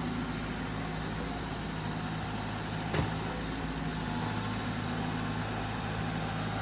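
Engine of an excavator running steadily, a constant low hum with one short knock about three seconds in.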